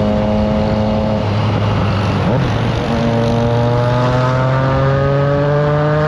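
Triumph Trident 660's inline three-cylinder engine and exhaust under way. It holds a steady note for about a second, goes rougher and lower for a couple of seconds, then climbs slowly and steadily in pitch as the bike accelerates.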